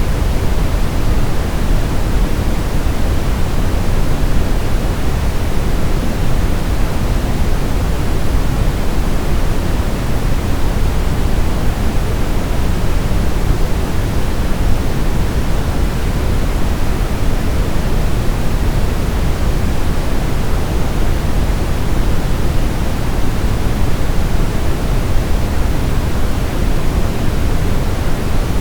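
Steady brown noise: an even, unchanging rush of noise weighted toward the low end, with no events or tones.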